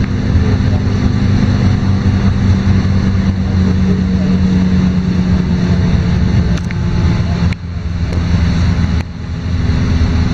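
LiAZ-5292.22 city bus's diesel engine running steadily under way, heard from inside the cabin, with two sudden dips in the engine sound near the end, about a second and a half apart.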